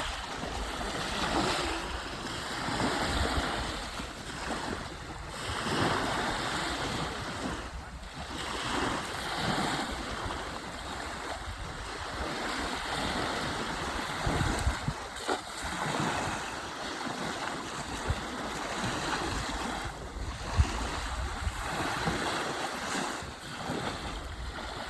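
Wind buffeting the microphone over the wash and lapping of water, swelling and easing, with a couple of brief knocks partway through.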